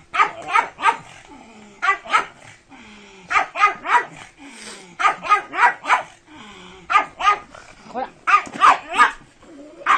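A dog barking in quick runs of two to four barks, repeated every second or two.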